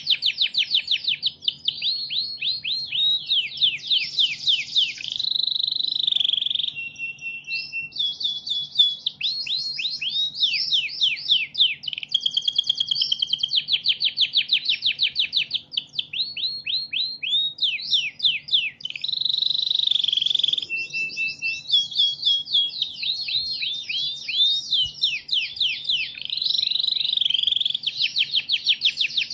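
Domestic canary singing in one long, unbroken song: fast rolling trills of rapidly repeated notes, changing from one trill to the next, with a few short steady whistled notes between them.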